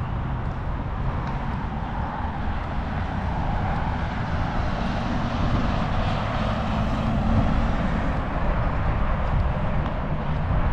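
Heavy vehicle engine and road noise: a steady low rumble that swells louder through the middle, with a droning tone rising out of it for a few seconds.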